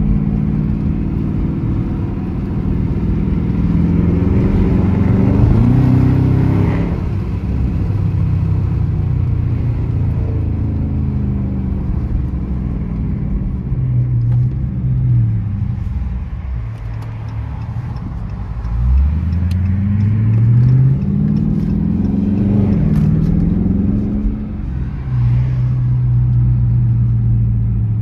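Dodge Charger R/T's Hemi V8 with its mid mufflers deleted, heard from inside the car while driving. The exhaust note rises as it accelerates a few seconds in and eases off. Just past the middle it pulls again from low revs through a climbing rise, then settles into a steady cruise.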